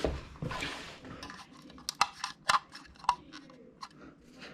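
Small insulated wires and cable being handled and sorted, giving irregular light clicks and rustles of plastic insulation.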